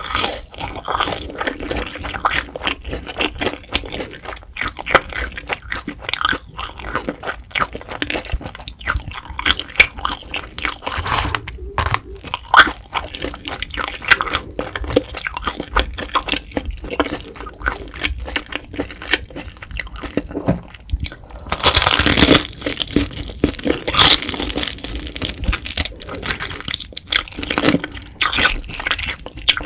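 Close-miked chewing of grilled beef intestines: a rapid run of wet, squishy chews with crisp crunches, and a louder stretch of crunching about three-quarters of the way through.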